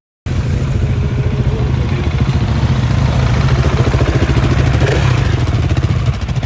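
Motorcycle engine running close by with a rapid, even exhaust pulse, cutting in abruptly after a brief gap; the revs swell slightly in the middle and ease off near the end.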